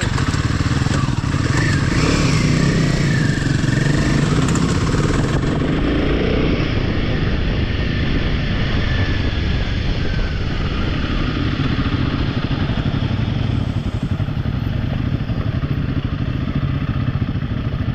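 Royal Enfield motorcycle under way, its engine running steadily with a continuous rush of road and wind noise.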